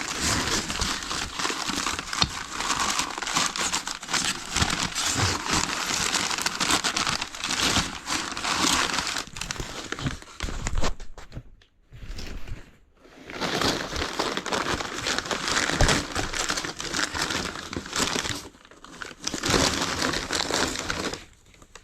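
Packing material being crumpled and rustled by hand as items are unwrapped from a box, in stretches of dense crinkling with a couple of short pauses, the first about halfway through.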